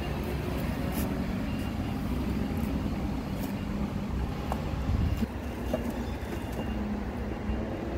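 A heavy vehicle's engine running steadily, with a few light clicks and a knock about five seconds in.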